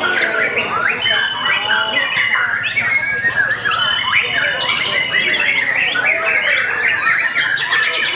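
Several caged white-rumped shamas singing over one another in competition: dense overlapping whistles, chirps and rapid rattling trills with no pause.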